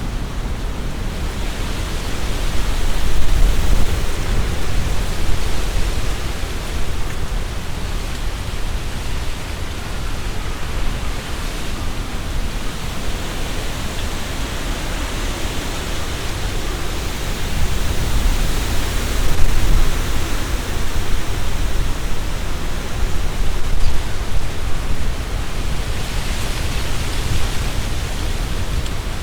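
Strong gusty wind blowing through tree leaves: a continuous rustling hiss over a deep low rumble, swelling in gusts about three seconds in and again around twenty seconds.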